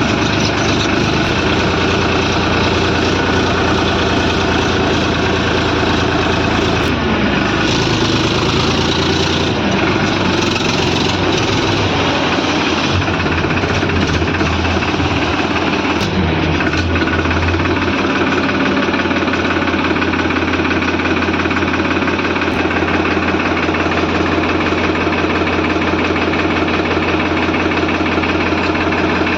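Heavy machine's diesel engine running steadily and loudly. Its note wavers in the middle, then settles back to a constant run.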